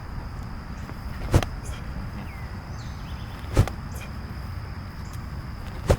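A football smacking into hands as it is caught, three times at even intervals about two seconds apart, during repeated short throws.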